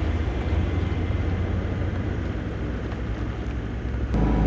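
Heavy diesel engine of road-works machinery running steadily with a low rumble. About four seconds in, the sound changes abruptly to a louder, steadier low hum.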